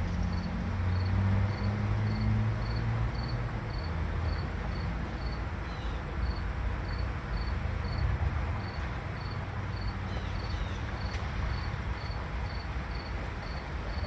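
A cricket chirping steadily, about two short high chirps a second, over a low steady hum.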